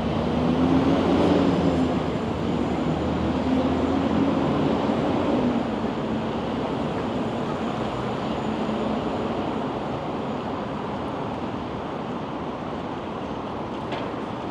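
A vehicle passing with a low, wavering engine hum, loudest over the first few seconds and then fading away, over steady city outdoor noise.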